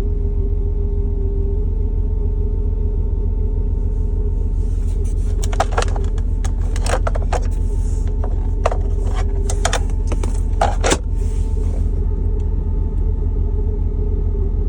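Ford F-350's 6.7 L Power Stroke V8 turbo-diesel idling at a stop, a steady high whine over the engine rumble; the whine builds the longer the truck sits at a stop. Several sharp clicks and a hiss come between about five and eleven seconds in.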